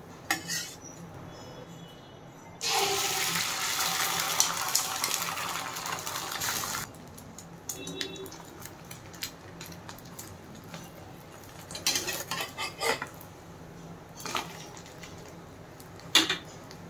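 Egg and paratha sizzling loudly in hot oil in a non-stick frying pan for about four seconds, then cutting off. A steel spatula scrapes and clatters against the pan in short clusters later on, with a sharp knock near the end.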